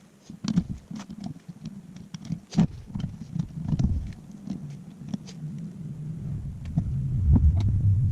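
Scattered knocks, clicks and rubbing from a race seat being handled and fitted in the vehicle, with a low rumble building near the end.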